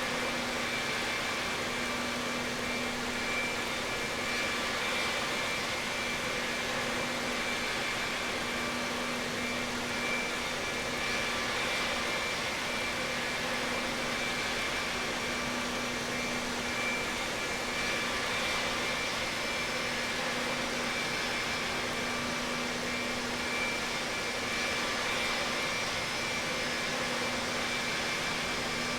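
Airbus A320 jet engines and airflow making a steady drone, with a constant low hum and a high whine that hold level throughout.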